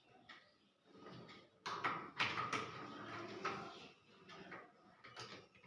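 Clicks, knocks and scraping of metal parts and tools being handled while a washing machine's counterweights are bolted on. The loudest part is a burst of sharp knocks and scraping in the middle.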